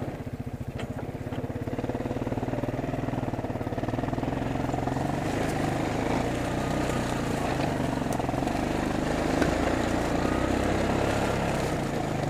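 Four-wheeler (ATV) engine running as it is ridden along a trail, starting out with a slow, even putter and picking up and running harder a few seconds in.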